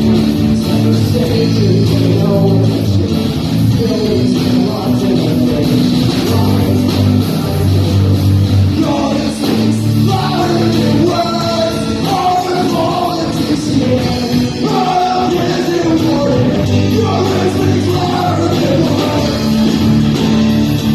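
Live folk-punk band playing loudly: strummed guitars and bass, with a voice singing over them for much of the middle stretch.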